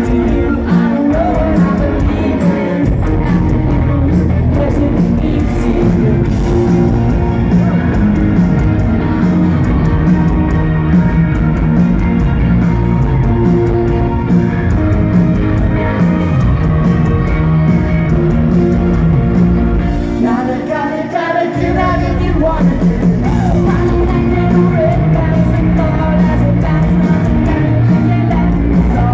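Live rock band playing loudly with a singer. The bass and drums drop out for a moment about two-thirds of the way through, then come back in.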